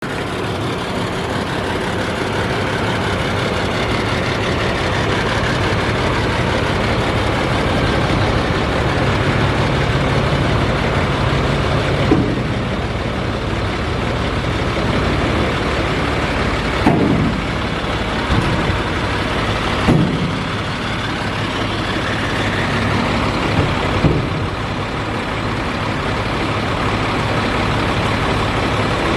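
2009 Sterling Acterra dump truck's diesel engine running steadily, with a few short, sudden sounds standing out about twelve, seventeen, twenty and twenty-four seconds in.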